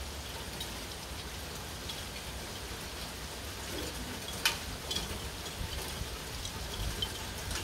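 Steady hurricane rain falling, with scattered drops ticking close by and one sharper tick about halfway through, under a low rumble of wind.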